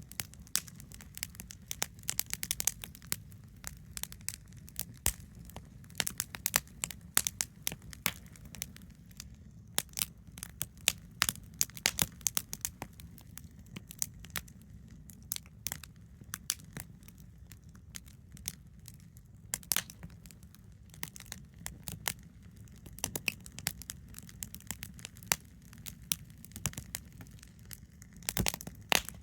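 Wood campfire crackling, with irregular sharp pops and snaps, sometimes several a second, over a steady low rumble.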